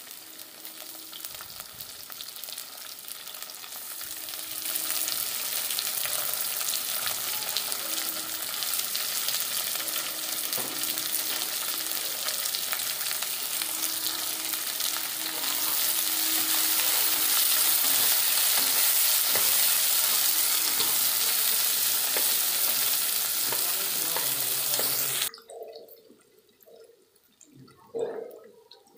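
Sliced bell peppers sizzling in hot oil in a wok with onion, garlic and ginger, a steady frying hiss that grows louder twice and then cuts off suddenly near the end. A few faint knocks follow.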